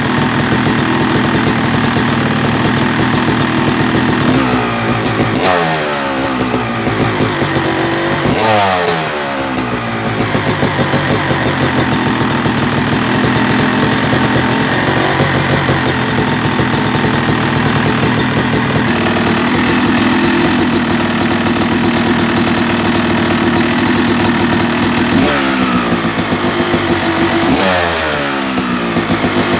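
Yamaha YZ250 two-stroke motocross engine, rebuilt and bored to 270cc, running while it warms up after a fresh rebuild, blipped gently so the revs rise and fall a few times: about five seconds in, about eight seconds in, and several times near the end.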